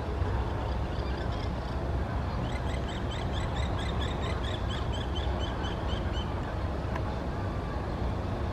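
A bird calling a rapid series of short, repeated high notes, about four a second for some four seconds, over a steady low rumble.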